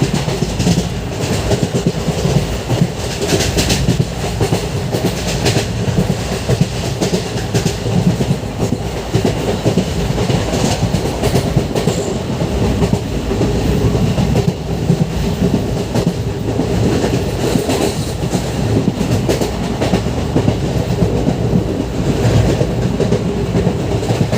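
Express passenger train running at speed, its wheels clattering over the rail joints with a steady rumble.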